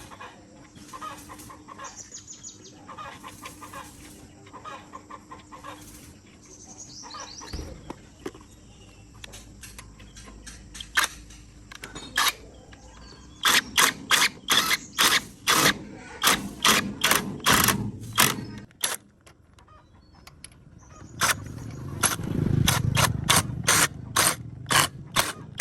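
A hand ratchet clicking in two quick runs of sharp, even clicks, about three a second, during tractor tyre work. Chickens cluck in the first several seconds.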